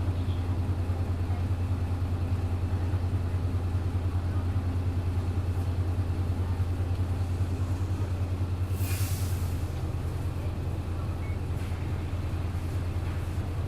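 Hino Blue Ribbon city bus diesel engine idling with a steady, evenly pulsing low throb. About nine seconds in there is a short hiss of released compressed air from the bus's air system, after which the engine runs a little quieter and steadier.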